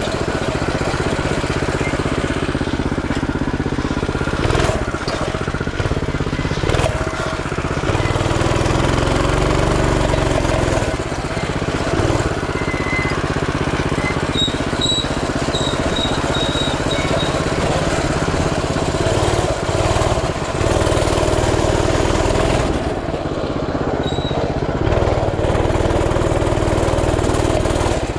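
Coleman CT200U mini bike's 196cc single-cylinder four-stroke engine running while riding, the revs rising and falling every few seconds as the throttle opens and eases off.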